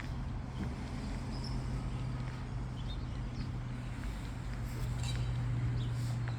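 Footsteps of someone walking over a steady low hum, with a scatter of faint, short high chirps.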